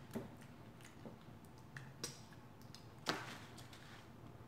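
Faint close-up chewing of edamame beans, heard as a few scattered soft wet mouth clicks about a second apart.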